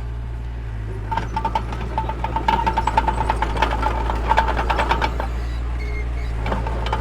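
Diesel engine of heavy earth-moving machinery running steadily with a low drone. From about a second in to about five seconds, a fast metallic rattling with a high squeal rides over it.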